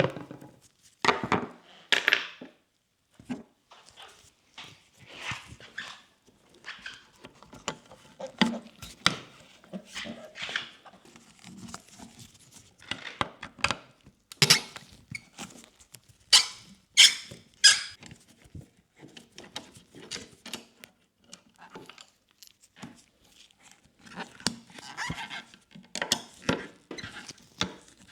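Hands working parts of a motorcycle headlight assembly: irregular clicks, knocks and short scraping or rustling sounds, with a cluster of sharp clicks about halfway through.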